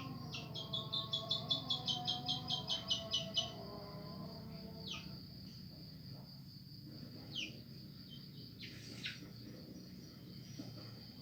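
A bird calling: a fast run of about a dozen sharp repeated notes over the first few seconds, then a few short downward-sliding whistles. A steady high insect trill runs underneath.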